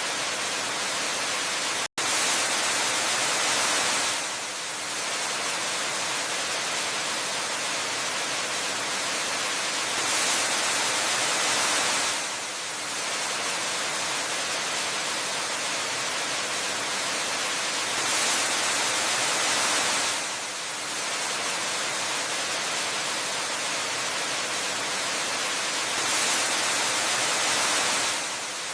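Steady rushing of a waterfall, a dense hiss of falling water that swells slightly louder for a couple of seconds about every eight seconds. A split-second dropout about two seconds in.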